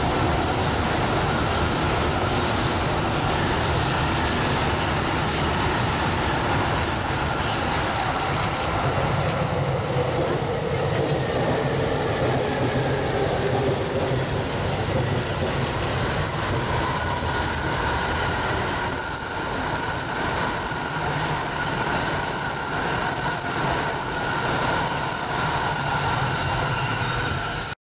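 Electric train running past on the tracks: a loud, steady rumble of wheels on rail with a faint held whine above it.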